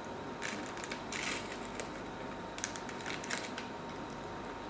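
Soft, scattered clicks and short rustles from eating and handling food at close range.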